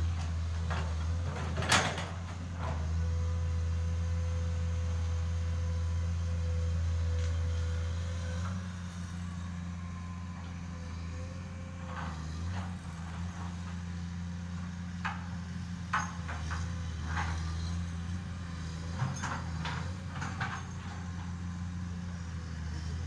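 Excavator's diesel engine running steadily, with scattered sharp clanks and knocks, several close together near the end.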